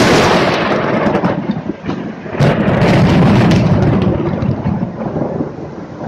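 Close thunder: a sharp crack followed by a rolling rumble, with a second loud crackling peal about two and a half seconds in. The peal fades away over the last two seconds.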